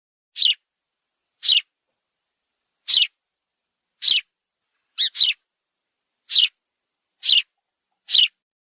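A bird giving short, sharp, high calls that drop in pitch, about one a second with a quick double call about five seconds in.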